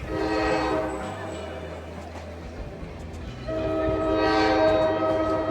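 Locomotive air horn blowing a chord of steady tones: a blast for about a second, a softer stretch, then a louder blast from about three and a half seconds in.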